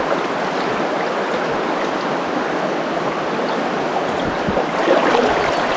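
Steady rush of a small mountain stream's flowing water, an even wash of noise.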